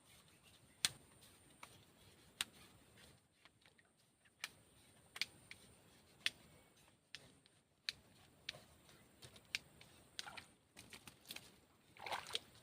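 Scattered sharp clicks and taps at irregular intervals, with a few short scuffling rustles near the end.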